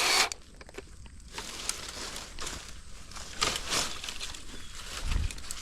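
Small hand pruning saw cutting through a dead branch, with uneven rasping strokes about every half second.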